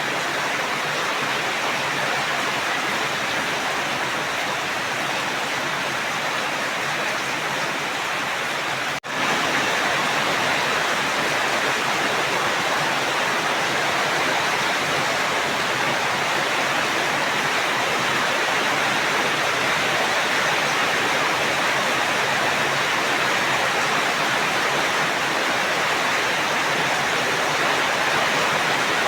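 Steady, dense rain falling, an even hiss of drops. About nine seconds in it cuts out for an instant and resumes slightly louder, like an edit point in a looped recording.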